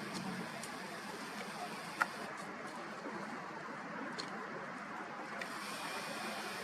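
River ambience: a steady rushing hiss of water and wind on open water, with one sharp click about two seconds in.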